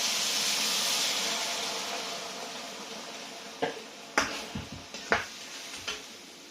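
Brown sauce poured into a hot pan of stir-fried chicken and vegetables, sizzling with a loud hiss that dies away over a few seconds. Then a handful of light knocks from the cooking utensil against the pan.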